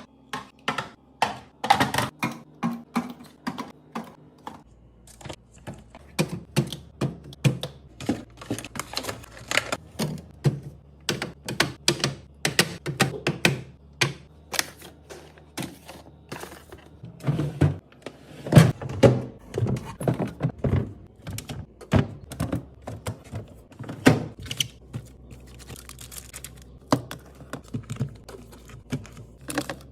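Containers, jars and bottles being set down and moved about in a refrigerator: a fast, irregular run of knocks, clicks and thunks.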